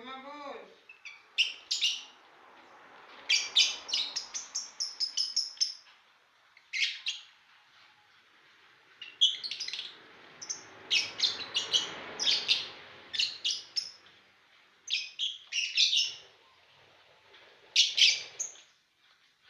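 Lovebirds chirping in shrill, rapid bursts. Runs of quick high calls are separated by short pauses, and the longest bursts come around four and twelve seconds in.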